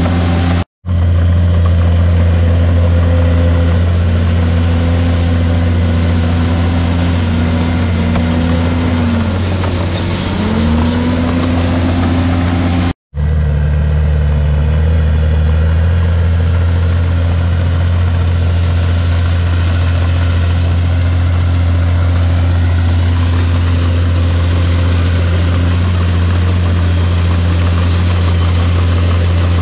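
Heavy diesel engine of earthmoving machinery running steadily under load, its pitch dipping and rising a few times in the first half. The sound cuts out completely for an instant twice, about a second in and near the middle.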